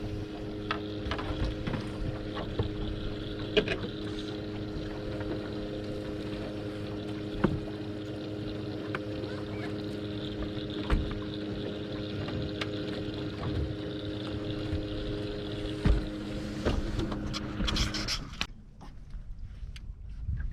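Boat motor running at a steady hum, with scattered knocks, until it cuts off about 18 seconds in.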